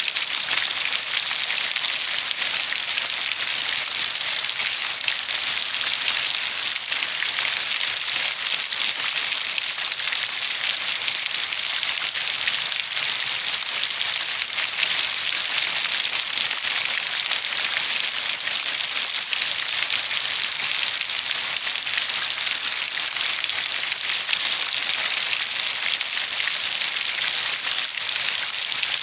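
Steady rainfall, a dense even hiss of countless drops pattering on a surface with no let-up.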